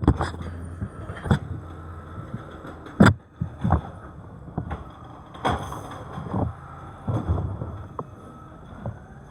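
Garbage truck at work: its engine hum under a series of irregular loud bangs and clanks, the loudest about three seconds in.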